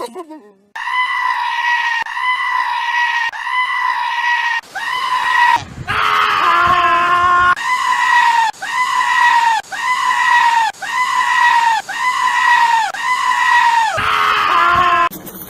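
A goat screaming over and over, one high, even-pitched call about once a second. A lower bleat joins in twice, in the middle and near the end.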